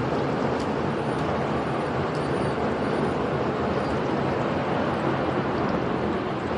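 Steady rush of heavy rain and wind from a storm close to a tornado, recorded on an amateur camera's microphone.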